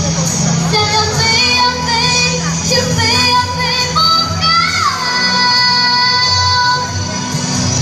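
A voice singing a Mandarin pop song over a backing track, with a long held note in the second half.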